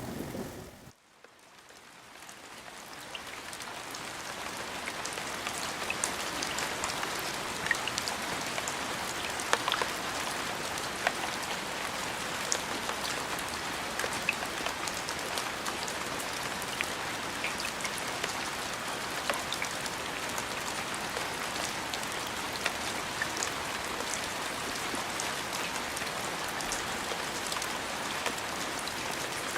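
Steady rain falling, fading in over the first few seconds, with many sharp ticks of single drops striking a surface.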